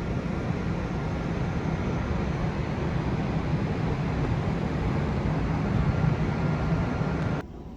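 Steady low rumble with a rushing noise over it from a large ferry under way, which cuts off abruptly near the end.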